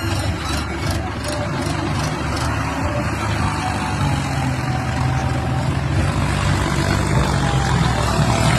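Mahindra 585 XP tractor's diesel engine running steadily at low revs, with a few faint clicks in the first couple of seconds. The engine note grows slightly stronger about halfway through.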